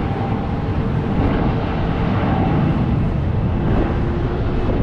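Jet airliner taking off in the distance: a steady, loud rumble of engines at takeoff power with a faint whine in it.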